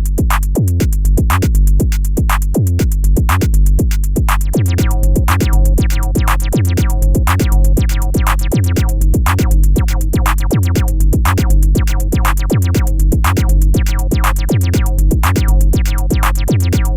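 Electronic music from synthesizers and a drum machine: a steady, fast drum pattern over a deep sustained bass, with higher synth notes joining about four seconds in.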